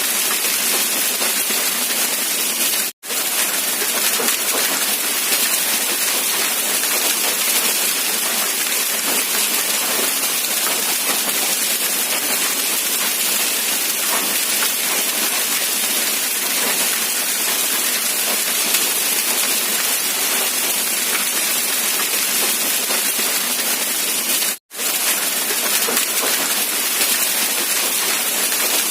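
Steady rain hiss. It drops to silence for an instant about three seconds in, and again about four seconds before the end.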